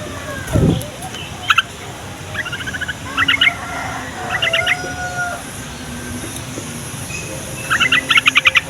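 Sooty-headed bulbul (trucukan) calling in short bursts of rapid chattering notes, the longest burst near the end. A loud low sound comes about half a second in.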